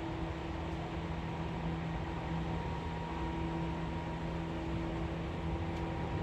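Seibu 4000 series electric train running at speed, heard from inside the car: a steady rumble of wheels on the rails with a few steady humming tones.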